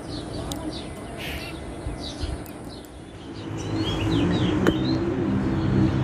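Wild birds chirping in short, repeated high notes. About halfway through, a motor vehicle's engine comes up underneath and grows louder.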